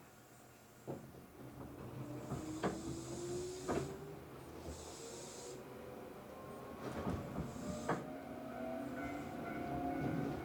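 Tobu 8000 series electric train heard from aboard, pulling away and accelerating: the traction motor whine rises steadily in pitch, with knocks of the wheels over rail joints and a few short hisses of air.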